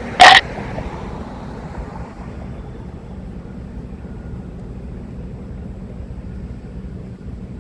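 A steady low motor hum, with one brief loud bump just after the start.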